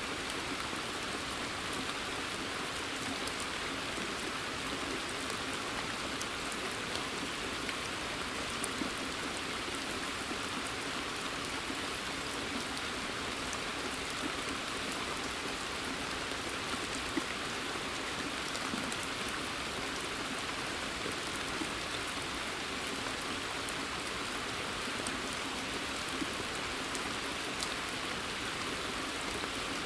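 Steady rain falling in a forest, raindrops pattering on leaves and a pond's surface, with scattered individual drips standing out now and then.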